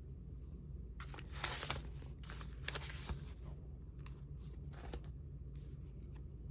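Old paper envelopes and postcards being handled and shuffled through, rustling and sliding in several short bursts, over a steady low hum.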